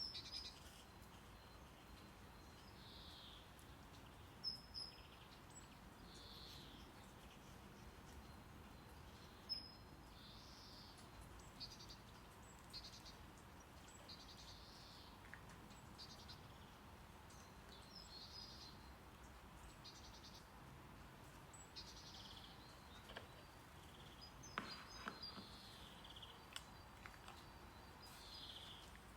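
Faint steady brown noise under a nature-sound track of short, slightly falling high chirps, roughly one every second or two, with a few sharp ticks.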